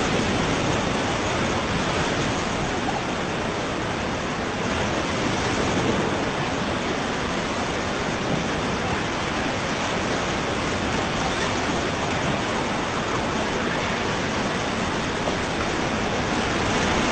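Steady rushing of whitewater rapids on a river, an even wash of water noise that stays constant throughout.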